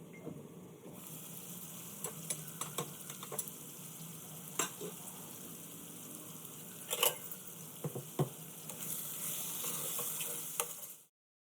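Food sizzling and frying in a pan while a spoon stirs it, with a steady hiss and scattered knocks and scrapes of the spoon against the pan. The sizzle grows louder near the end, then cuts off suddenly.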